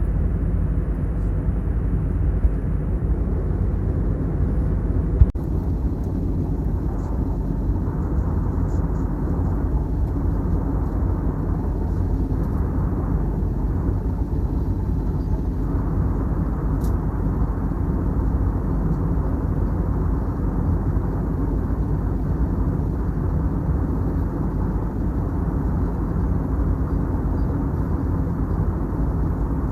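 Steady cabin noise of an Airbus A321neo airliner in cruise: a constant low rumble of airflow and engines.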